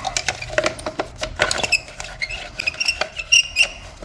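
Small metal pieces clinking and rattling: a quick, irregular run of light ticks with short high ringing tones.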